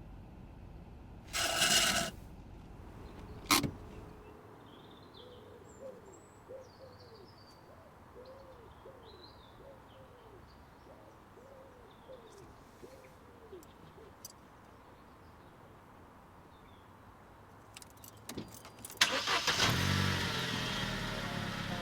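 A brief loud rustling burst and a sharp knock, then a quiet stretch with a run of about ten short hooting calls and faint high chirps. Near the end a car engine starts and keeps running.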